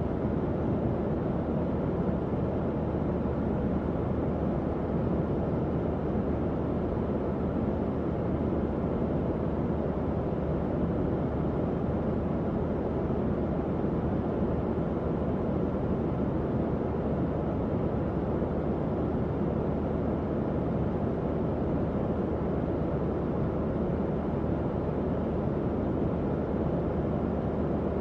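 Tower fan running steadily: an even, low rushing of air with a faint hum underneath.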